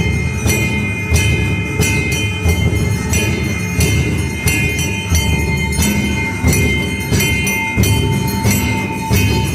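Hindu temple aarti: drum and bells struck in a steady beat about twice a second, with bells ringing on between the strikes.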